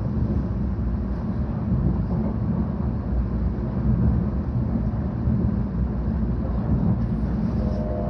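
Steady in-cabin rumble of a 700 Series Shinkansen running at speed, the low drone of running gear and air noise heard through the car body.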